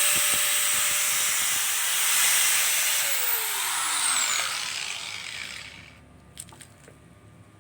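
Electric drill boring holes in PVC pipe, a loud whirring rasp. About three seconds in the motor's whine falls as it winds down, and the sound dies away by about six seconds, leaving a few faint clicks.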